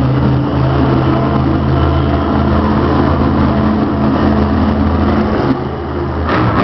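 Monster truck's supercharged V8 engine running loud at steady revs. Near the end the engine note drops briefly and there is one short sharp bang.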